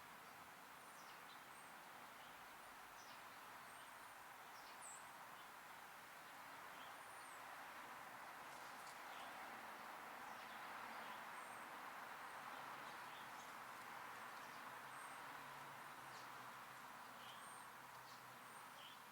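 Faint, scattered high chirps and short calls of small songbirds, over a steady background hiss.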